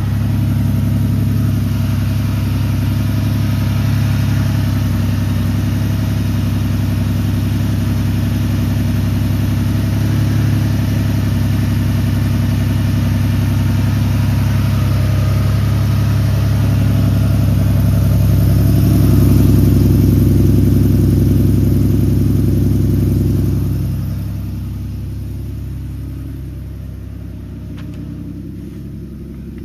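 Porsche 930's air-cooled turbocharged 3.0-litre flat-six idling during a cold start, steady and even. It swells a little past the middle, then settles to a lower, quieter idle near the end.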